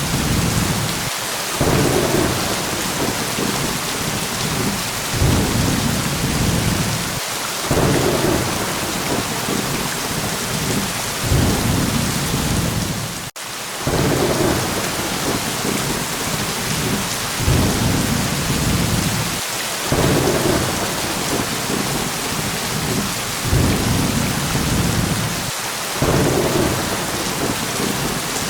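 Steady heavy rain with low rumbling thunder swelling and fading every few seconds. The sound cuts out for a moment about halfway through.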